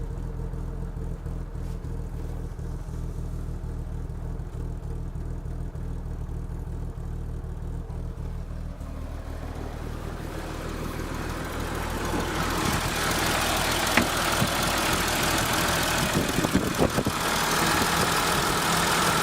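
Exhaust of a BMW M30B30 3.0-litre straight-six engine idling steadily. About ten seconds in the sound gets louder and harsher with more hiss, and a few sharp clicks or pops come near the end.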